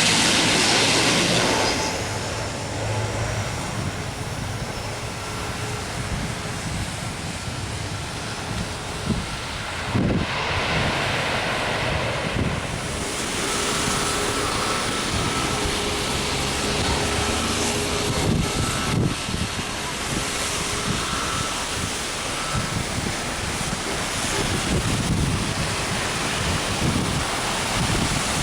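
Steady rushing of wind on the microphone with faint, distant jet aircraft engine noise, louder for the first two seconds and then settling to a steady level.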